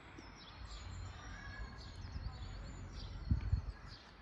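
Forest songbirds chirping, with many short, high calls repeated over a low rumble. A few dull low thumps come a little after three seconds in.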